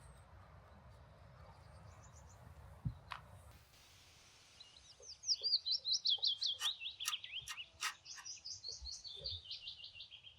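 A bird singing: a fast run of short, repeated chirps that begins about halfway in and slowly steps down in pitch, with a few sharp clicks among them.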